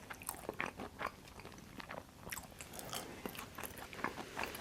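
Chewing and biting of Detroit-style pizza in the mouth: an irregular string of small crunches and wet mouth clicks.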